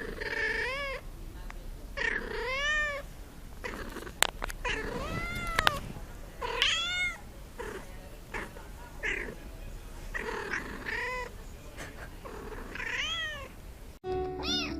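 A cat meowing again and again, about seven drawn-out meows that each rise and fall in pitch, with a few sharp knocks between them. Near the end the sound cuts abruptly to music.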